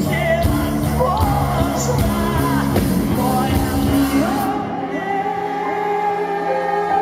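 Live rock band playing with singing. About four and a half seconds in, the drums and cymbals stop, leaving held chords under the voice.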